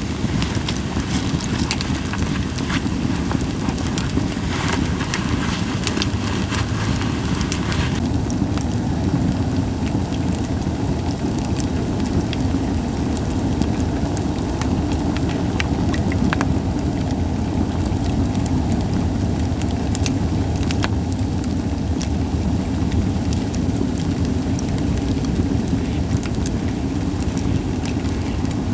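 Japanese white pine firewood burning, crackling with scattered sharp pops and little hissing, over a steady low rumble.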